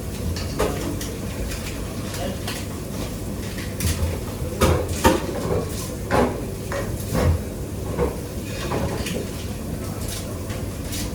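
Kitchen work: dishes, pans and utensils clinking and knocking at irregular intervals over a steady low hum.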